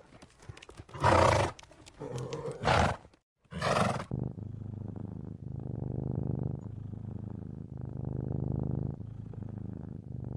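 Zebras give three short, loud, harsh calls over the first few seconds. Then a domestic tabby cat purrs steadily for the rest, its purr coming in long phrases, each rising and falling.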